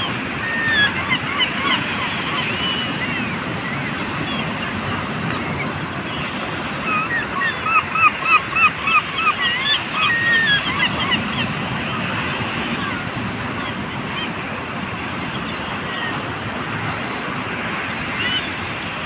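Seagulls calling over steady surf and wind noise, with a fast run of repeated calls from about seven to eleven seconds in.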